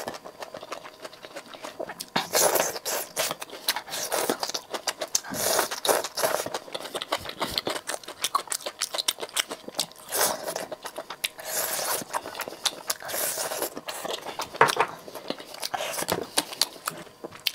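Close-miked chewing of saucy skewered food: wet mouth clicks and smacks, coming in louder flurries every few seconds.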